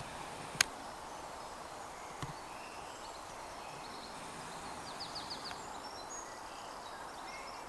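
Steady rush of river water with small birds chirping briefly in the background. A single sharp click comes about half a second in and a faint knock a couple of seconds later.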